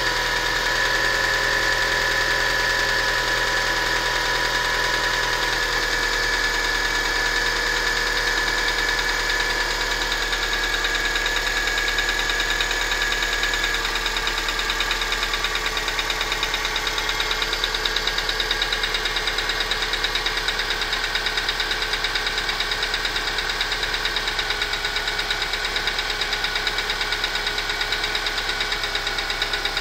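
Subaru EJ202 2.0-litre flat-four engine running steadily with a rhythmic knock, which the owner puts down to the number 4 cylinder.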